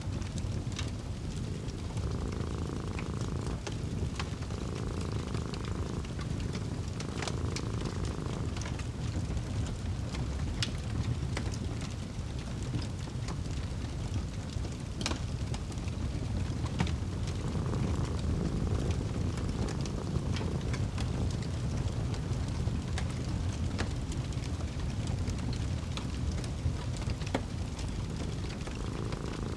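Wood fire crackling, with scattered sharp pops over a steady low rumble, and a cat purring in slow, even breaths.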